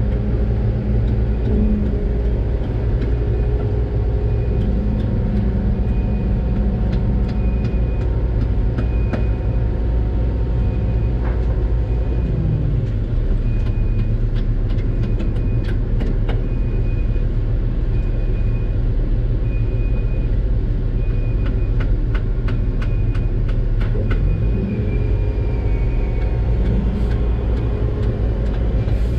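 Doosan DX600 excavator's diesel engine running under working load, heard from the cab, its note shifting twice as the hydraulics are worked. A high beep repeats about once a second through most of it, and bursts of sharp clicks and knocks come in the middle and near the end.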